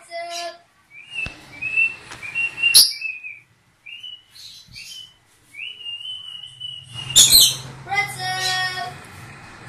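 A pet bird chirping and whistling in short, high, upward-sliding notes, repeated throughout, with a louder, harsher call about seven seconds in.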